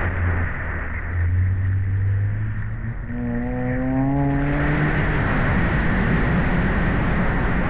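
2020 Subaru Impreza's flat-four engine running through an aftermarket axle-back exhaust while driving, its note climbing in pitch a few seconds in as the car accelerates. About halfway through, a steady rushing noise of road and wind comes up under the engine.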